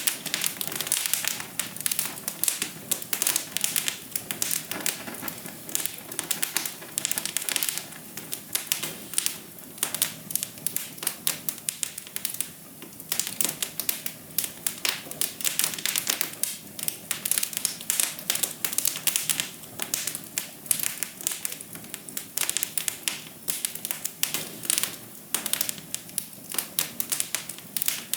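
Wood fire in a fireplace crackling: a dense, irregular stream of sharp pops and snaps, several a second, over a faint hiss.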